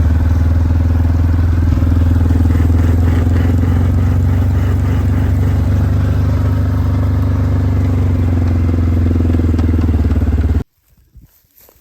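Vehicle engine running loud and steady at an even speed, starting and cutting off abruptly.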